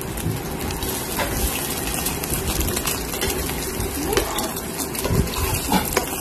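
Sardine-and-egg patties sizzling in shallow oil in a frying pan, with a few clicks of a metal spatula against the pan as they are moved.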